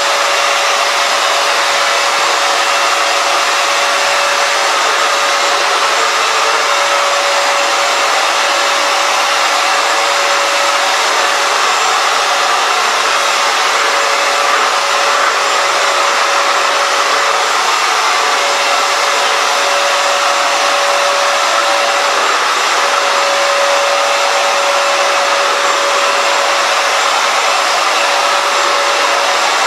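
Hoover FloorMate Edge hard floor cleaner running while washing a floor: a loud, steady whir of its suction motor with a constant whine, briefly wavering twice in the second half.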